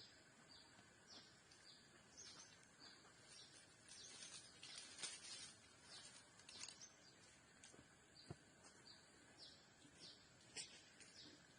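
Faint outdoor ambience with a bird's short, high chirps repeated about twice a second.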